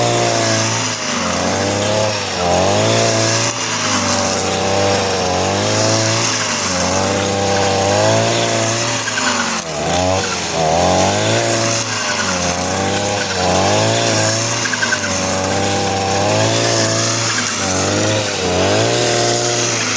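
Petrol brush cutter engine running under load, its pitch rising and falling every second or two as it revs and bogs while cutting.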